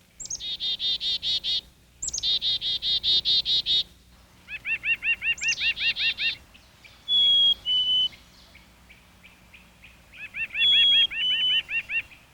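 Backyard songbirds singing: phrases of fast trills made of repeated slurred notes, each opening with a high down-slurred note, and a clear two-note whistle that steps down in pitch about seven seconds in. The whistle returns near the end over another trill.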